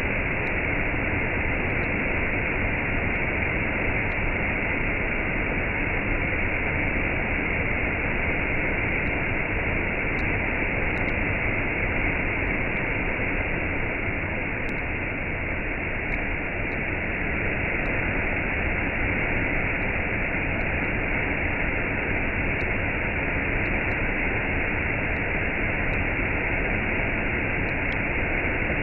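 Waterfall and cascade: water falling and rushing in a steady, unbroken roar.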